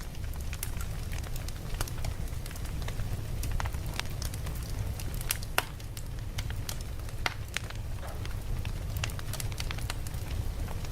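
Campfire burning, with sharp crackles and pops at irregular moments over a steady low rumble of the flames.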